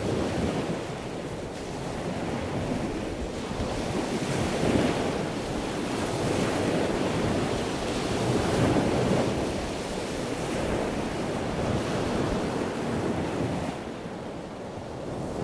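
Rushing noise of ocean waves and surf, swelling and easing slowly, with no distinct splashes.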